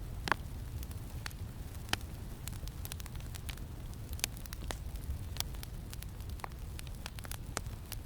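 Campfire crackling, with irregular sharp pops and snaps, the strongest about a third of a second and two seconds in. A steady low wind rumble runs underneath.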